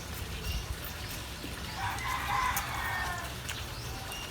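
A rooster crowing once, a call of about a second starting about two seconds in, over a steady low background hum.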